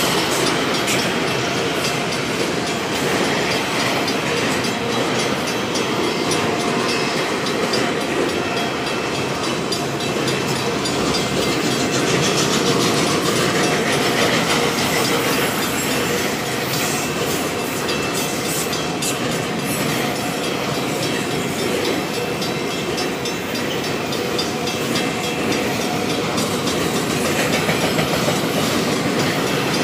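Freight train of autorack cars rolling past close by: a steady rumble and clatter of wheels over the rail joints, with faint thin wheel squeal.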